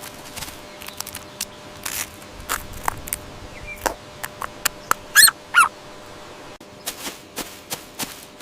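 Bird calls: two loud, short wavering calls about five seconds in, amid scattered sharp clicks.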